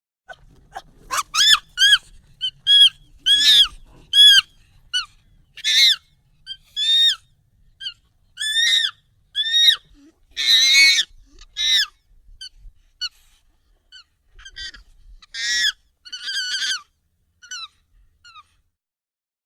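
Monkey calls, sped up and pitched up: a string of short, high calls, many arching up and then down in pitch, coming irregularly about one or two a second.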